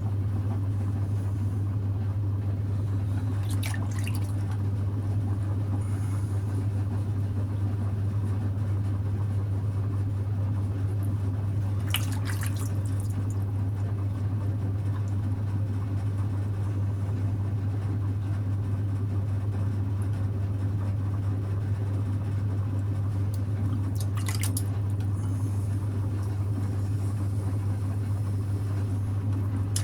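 Electric potter's wheel running with a steady low hum while wet clay and slip squelch and drip under the potter's hands as a pot is thrown. There are three brief sharp wet splashes or clicks, at about 4, 12 and 24 seconds in.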